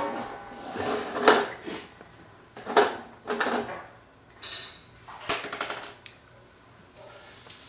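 Irregular clatter of small hard toys being handled, knocked together and dropped: a dozen or so separate knocks, with a quick run of rattling ticks about five and a half seconds in.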